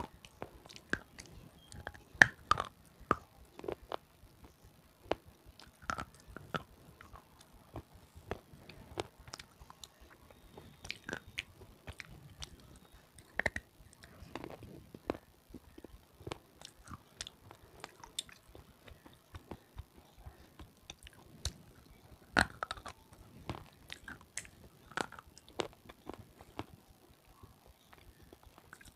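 Close-miked biting and chewing of hard, crunchy red sileti pieces: irregular sharp crunches and crackles, loudest about two seconds in and again near twenty-two seconds.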